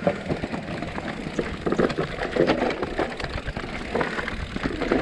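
Mountain bike descending a rough dirt trail: tyres rolling over rocks and loose ground, with a fast, uneven clatter of knocks from the bike.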